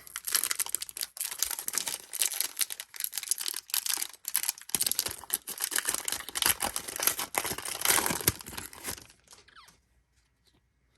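A trading-card pack's wrapper being torn open and crinkled by hand, a dense run of rustling and crackling that stops about nine and a half seconds in.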